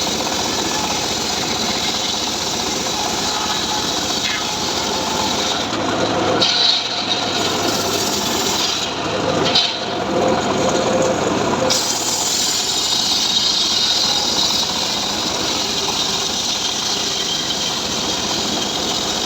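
Homemade engine-driven saw rig (gergaji srekel) running and cutting through mahogany wood, a steady sawing noise whose pitch and texture shift between about 6 and 12 seconds in.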